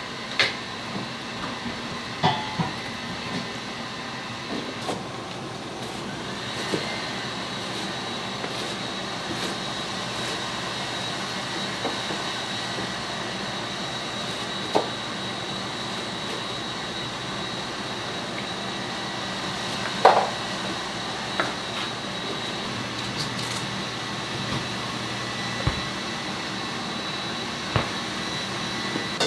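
Steady hum of restaurant-kitchen equipment with occasional sharp knocks and clinks of kitchen utensils, the loudest about twenty seconds in.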